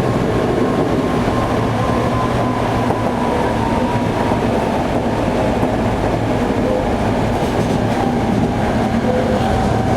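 Toei 5300 series electric train running at speed, heard inside the passenger car: a steady rumble of wheels on rail with a faint motor whine.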